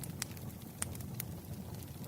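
Campfire burning: a steady low rumble of flames with a few sharp crackles and pops from the wood.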